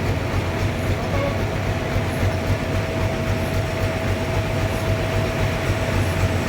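Sawmill running steadily while sawing a trembesi log into boards: a constant low rumble with a steady whine over it.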